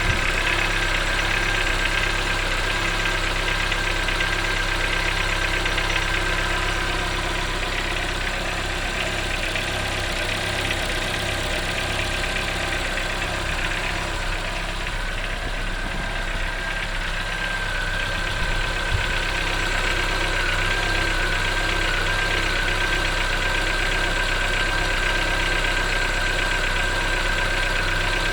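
Chevrolet Onix 1.4 engine idling from a cold start, with a fast, steady tapping from the top of the engine. The noise shows up on cold starts and stops once the engine warms. Others blame the canister purge valve; the owner thinks it comes from the engine itself, perhaps a hydraulic lifter.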